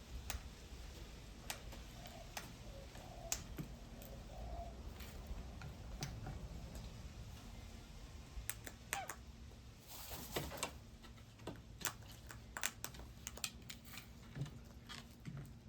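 Faint, irregular light clicks and taps of small birds pecking and handling seed at a feeder, with a brief flurry about ten seconds in.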